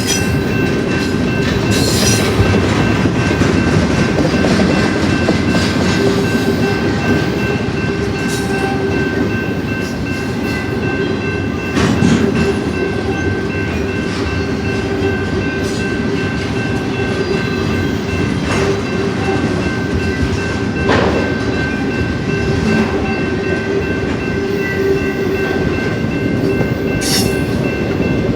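Union Pacific intermodal freight train's cars rolling past: a steady rumble and clatter of wheels on rail, with a faint steady whine over it and a few sharp clanks.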